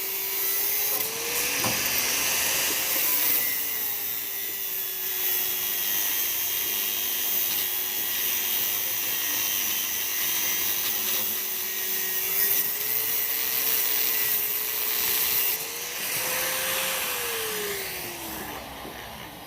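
An electric power tool's motor running with a steady whine and a loud hiss. Its pitch sags and recovers as load comes on and off, and near the end it winds down as the tool is switched off.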